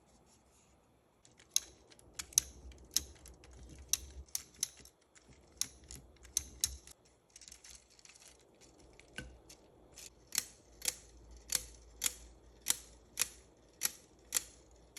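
Sharp plastic clicks from a 3D-printed, gravity-driven Swiss-style lever escapement ticking. The ticks come unevenly at first, then settle into a steady beat of about two a second from around ten seconds in.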